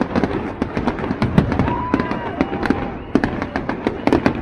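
Fireworks display going off: a dense run of sharp bangs and crackles, several a second, with a short held tone about halfway through.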